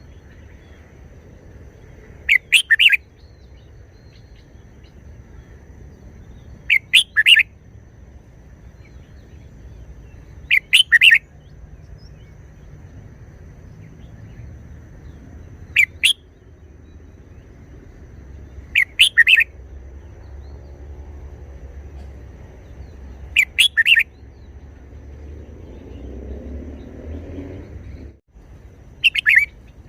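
Red-whiskered bulbul singing short, clear song phrases, seven of them, each about half a second long and coming every four to five seconds.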